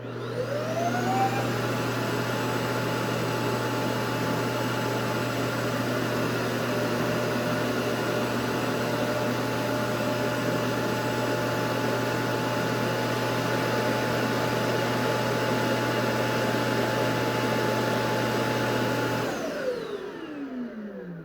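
Roborock Qrevo S robot vacuum fan motor spinning up with a rising whine and a rush of air, running steadily under a low hum, then winding down with a falling whine near the end.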